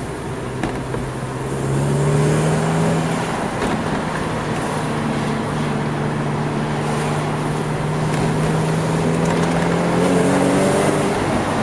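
Car engine and tyres heard from inside the cabin while driving slowly; the engine note rises about two seconds in and again near the end as the car picks up speed.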